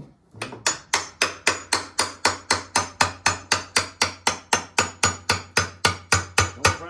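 A hammer striking metal in a fast, steady series of even blows, about four a second, starting about half a second in.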